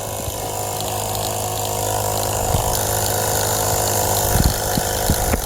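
Small electric air compressor (a tire inflator converted to run from an RC battery) running steadily while pumping up a car tire, a constant low hum with a buzzing edge. A few short knocks sound in the second half.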